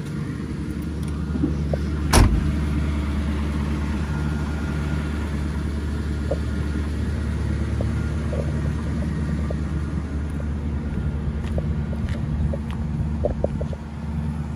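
1976 Cadillac Eldorado's 500 cubic-inch V8 idling with a steady low rumble. A single loud thump comes about two seconds in.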